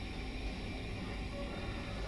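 Passenger train carriage running along the track: a steady low rumble with rolling noise and a faint, thin high whine.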